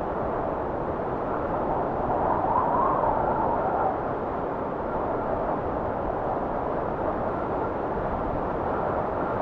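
Blizzard wind blowing as a steady rushing noise, swelling into a louder gust with a faint whistle about two seconds in and dropping back suddenly near four seconds.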